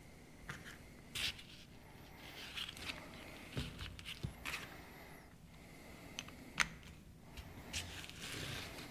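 Scattered light clicks, knocks and scrapes of hand tools and small metal parts as a diesel injection pump is taken apart on a bench.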